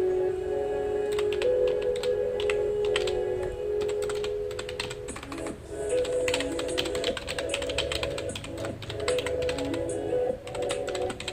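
Steady typing on a computer keyboard, with rapid irregular key clicks and brief pauses, over soft background music of held tones.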